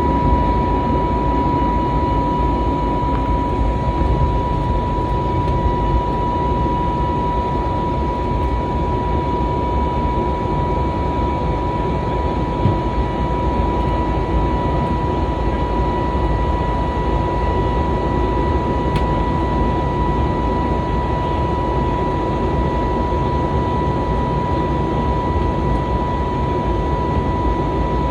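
Jet airliner cabin noise: a steady low rumble of engines and airflow with a steady high whine running through it.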